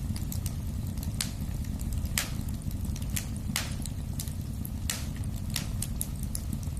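Wood fire in a fireplace crackling: a low steady rumble of the flames with frequent small snaps and a handful of louder pops every second or so.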